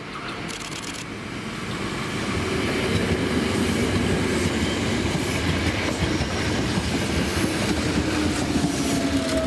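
A train running past: its running noise builds over the first few seconds and then holds loud and steady, with a humming tone that slides lower in pitch near the end.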